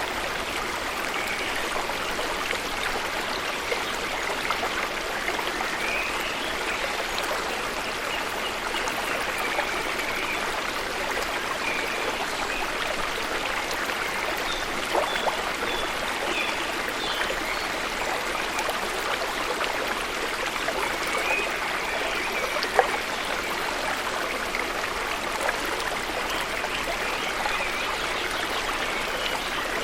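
Waterfall pouring into a pool, a steady rushing of falling water.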